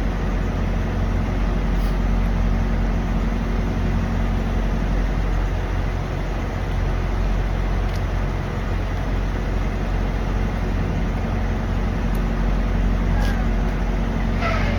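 Steady low drone of idling diesel truck engines, with an even hum and no change in pitch or level.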